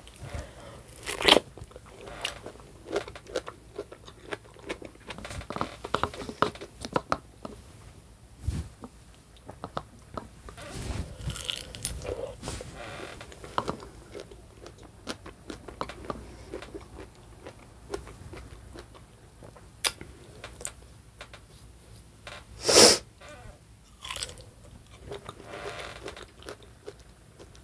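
Close-miked crunchy bites and chewing of food, with two loud crisp bites, one about a second in and one near the end, and many smaller crunches and mouth sounds between.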